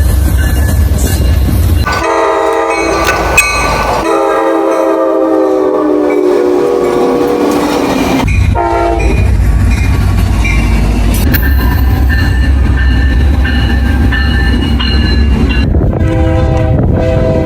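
Locomotive multi-chime air horn blowing over the low rumble of a train. It sounds two long blasts, one short and one long, the standard warning for a grade crossing, and the second blast slides down in pitch.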